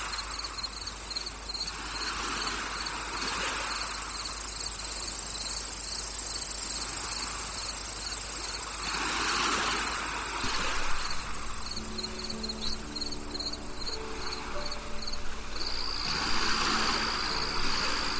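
Crickets and other insects chirping: a steady high trill with rapid, regular chirps over it, and a soft rushing that swells and fades every few seconds. About twelve seconds in, soft sustained low tones come in under the insects.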